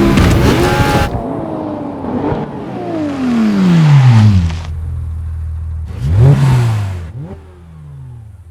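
Car engine revving, with a loud rush of noise at the start. The revs fall away steadily over about two seconds, then the engine blips up and back down once more near the end.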